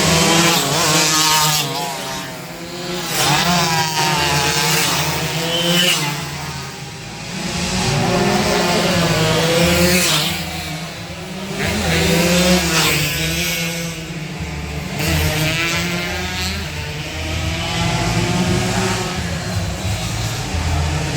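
Two-stroke 116cc underbone race motorcycles revving hard as they go past. Engine pitch climbs and drops again and again as they shift gears, and the loudness swells and fades with each pass.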